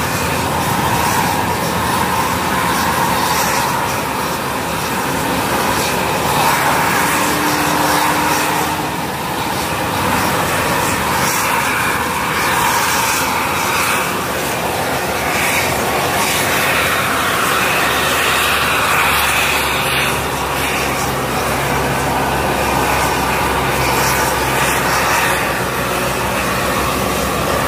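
Steady, loud engine drone under a constant rushing noise, with no breaks; a low hum grows a little stronger about two-thirds of the way through.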